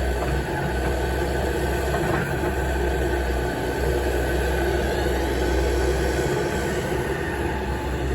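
Heavy diesel construction machinery, an excavator and dump trucks, running steadily with a deep low rumble.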